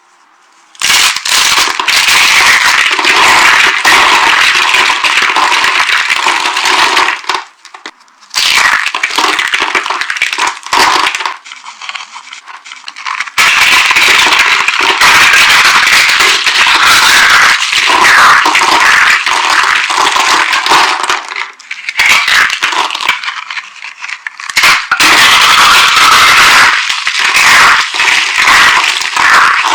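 Dry soap being crushed and crumbled, a dense, loud crunching and crackling of many small sharp snaps. It comes in long stretches with short pauses, about a second in, around eight seconds and around twelve seconds.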